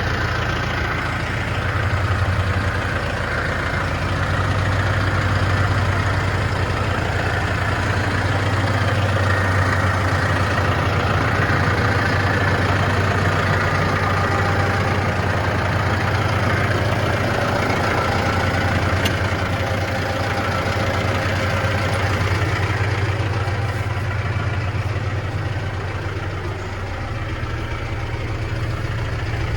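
Diesel engine of a Case 110 Pro MFWD loader tractor idling steadily, a little quieter near the end.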